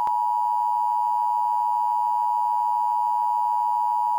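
Emergency Alert System attention signal: a loud, steady two-tone alert, the signal that announces an emergency warning message is about to be broadcast.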